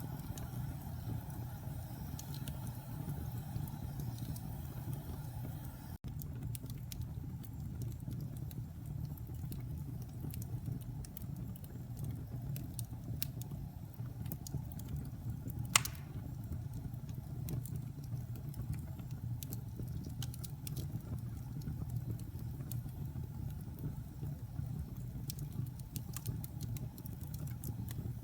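Wood fire burning in a fireplace: a steady low roar of flames with scattered small crackles and one loud pop about halfway through.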